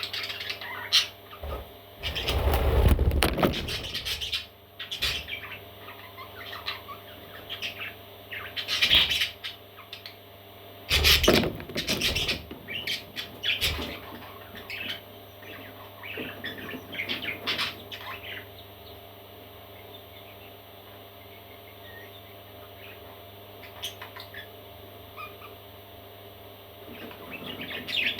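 Parrot chicks chirping and squawking in scattered short calls. Louder bumps and rustles come about two to four seconds in and again around eleven seconds. The calls thin out over the last ten seconds.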